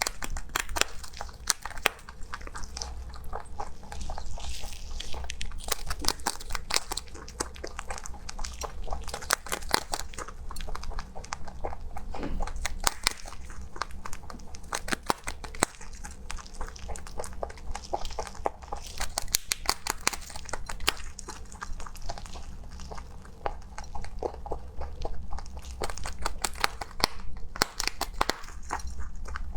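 A rabbit chewing crunchy food, with a rapid, continuous run of crisp bites.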